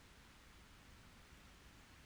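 Near silence: faint, steady background hiss and low rumble of a quiet forest, with no bird calls.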